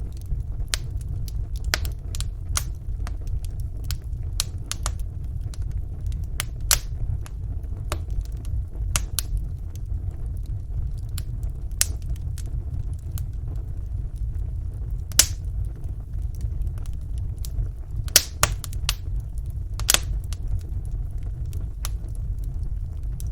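Wood fire burning in a fireplace: a steady low rumble of the flames under irregular sharp crackles and pops, with a few louder pops now and then.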